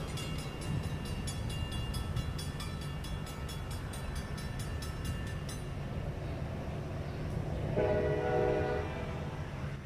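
Metra commuter train pulling away with a steady low rumble and rapid, regular clicking for the first half. About eight seconds in, one horn blast of about a second.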